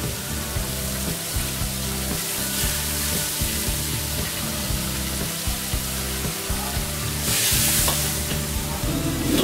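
Squid sizzling as it fries in a hot wok, a steady hiss that swells louder for a moment near the end.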